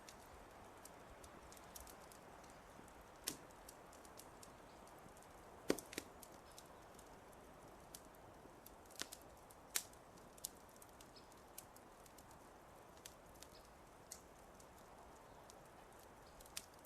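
Wood fire crackling: scattered sharp pops and snaps over a faint, steady hiss, with the loudest pops about six and ten seconds in.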